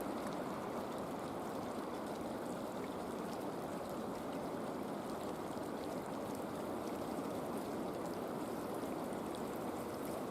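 Creek water running steadily: an even, unbroken rush.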